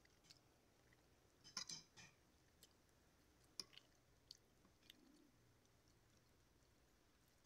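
Faint chewing while eating fish: a few soft clicks, a small cluster about one and a half seconds in and single ones a little after the middle.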